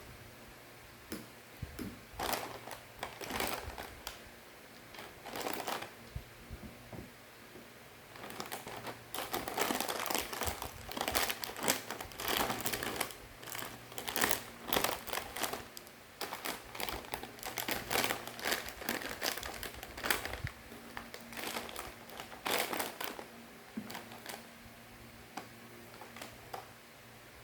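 Plastic snack packaging crinkling and rustling as it is handled, in irregular crackly bursts. The crinkling is busiest in the middle and dies down near the end.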